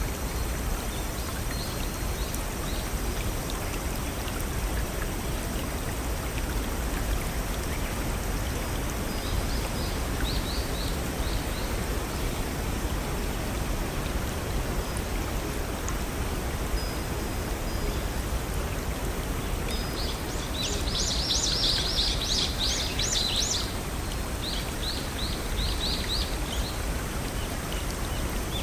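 Steady rush of a brook with small waterfalls, with songbirds over it: short runs of quick high chirps about ten seconds in, a louder burst of song a little after twenty seconds, then more chirp runs near the end.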